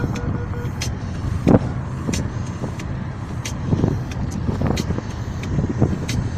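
A car driving, heard from inside the cabin: a steady low rumble of road and engine noise, with scattered short knocks and clicks.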